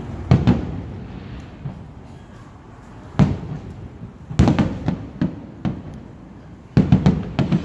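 Aerial firework shells bursting in a series of bangs, each trailing off in echo: a pair right at the start, a single one about three seconds in, a quick run of four or five from about four and a half seconds, and another cluster near the end.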